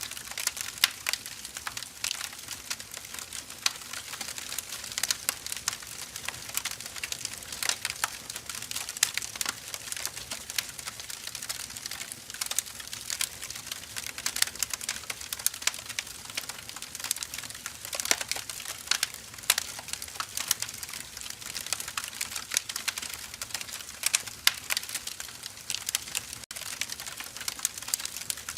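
Firewood burning, crackling with frequent irregular sharp pops and snaps over a steady hiss.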